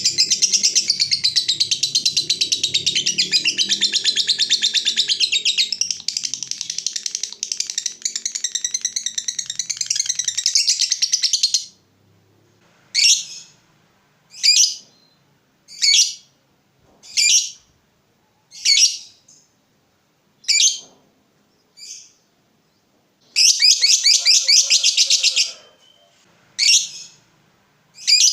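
Lovebird giving its long rapid chatter (ngekek) for about eleven seconds. Short sharp single calls follow, roughly one every second and a half, then a second, shorter burst of chatter about two-thirds of the way in, and more single calls near the end.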